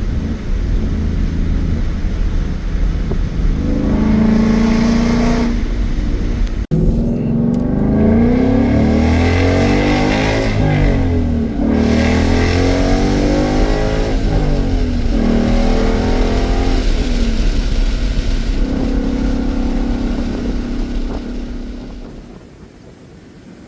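2015 Ford Mustang GT's 5.0-litre V8 through a Roush cat-back exhaust, revving and accelerating hard with its pitch climbing several times. The sound cuts out for an instant partway through and dies away near the end.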